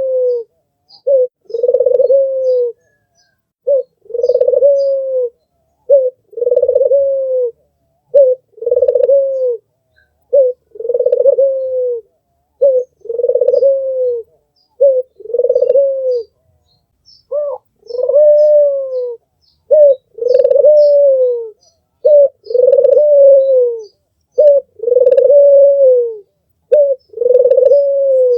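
Albino puter (Barbary dove) cooing over and over. Each call is a short note followed by a longer coo that falls at its end, repeating about every two seconds. Faint high chirps sound in the background.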